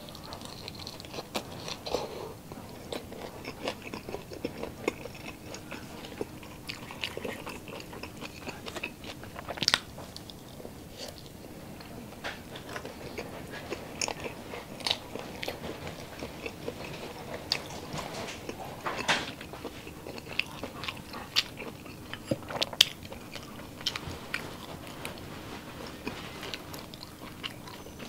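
Close-miked biting and chewing of grilled skewered street food, such as grilled intestine and pork barbecue. It is a run of irregular, sharp crunchy clicks and mouth sounds, with a few louder bites about 10 and 23 seconds in.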